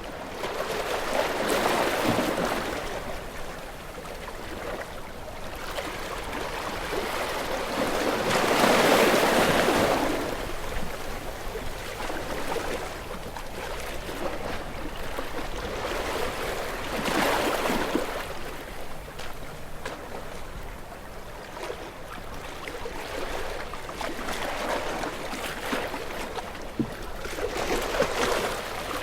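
Ocean waves breaking and washing in, four swells of surf that build and fade, the loudest about nine seconds in.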